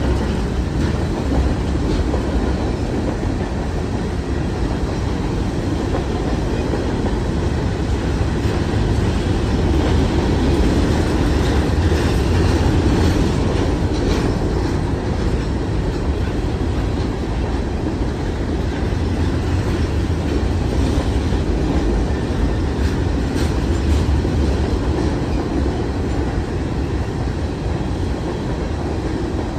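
Freight cars of a Canadian National freight train rolling past at close range, boxcars giving way to covered hopper cars. Their steel wheels make a steady, loud rumble on the rails, with occasional clicks.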